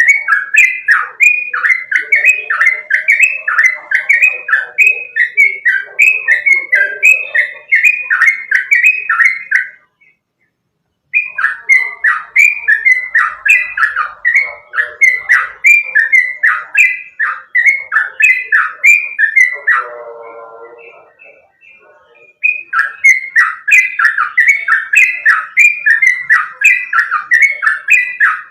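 Yellow-vented bulbul (trucukan) singing loudly: a fast, continuous run of repeated chattering notes, about three a second. It breaks off twice briefly. Just before the second break there is a short, lower, rougher call.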